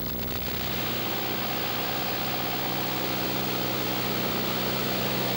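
Steady drone of a Cessna's piston engine and propeller heard inside the cabin, after electronic music cuts out about half a second in.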